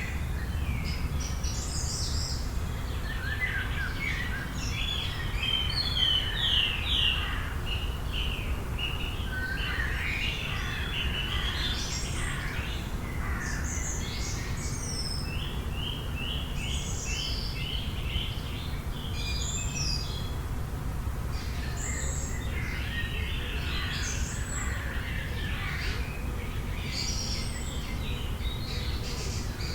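Several wild birds singing together, overlapping chirps, trills and short whistled phrases from different birds throughout, over a steady low rumble.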